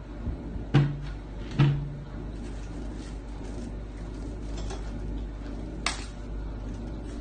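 Wooden kitchen cabinet door knocking against its frame as a cat paws at it: two sharp knocks about a second in, under a second apart, and a fainter one near the end, over a steady low hum.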